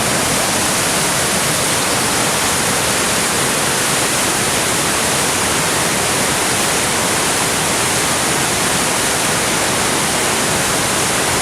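Steady rushing roar of a whitewater mountain torrent's rapids.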